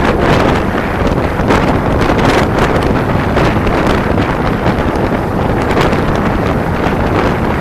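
Loud, steady wind buffeting the microphone of a camera riding on a moving motorcycle, with gusty flutters throughout.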